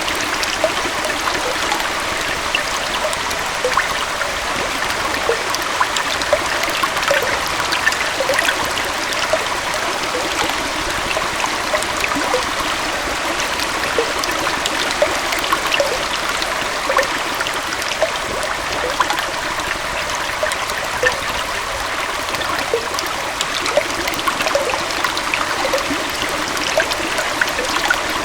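A small waterfall and stream running steadily: an even rush of water with splashes and trickles over it.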